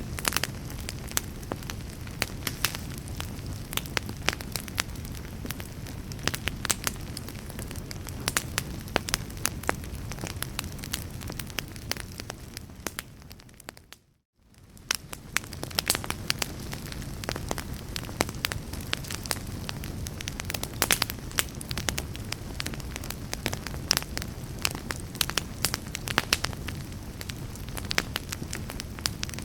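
Wood fire crackling, with frequent sharp pops and snaps over a low steady rumble. About halfway through the sound fades out to silence for a moment and fades back in, the seam of a looped recording.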